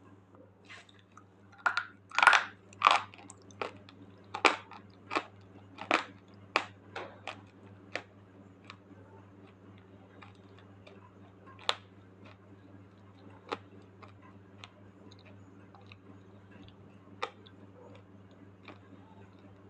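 Slate pencil being bitten and chewed: a quick run of loud, sharp crunches in the first eight seconds or so, then only occasional single crunches.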